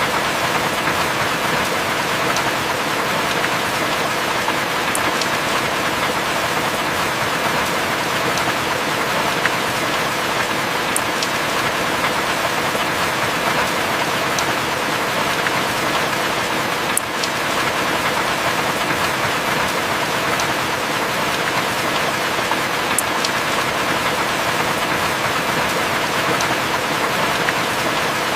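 Heavy rain falling steadily, an even hiss with faint high ticks about every six seconds.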